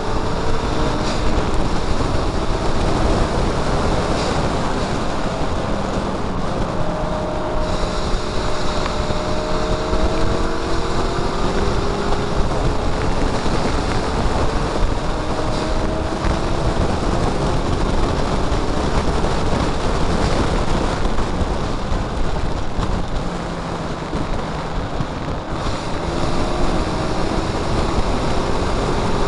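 Mazda MX-5's four-cylinder engine running at race speed, its pitch climbing slowly and dropping back several times through gear changes, half buried under heavy wind rush on the microphone.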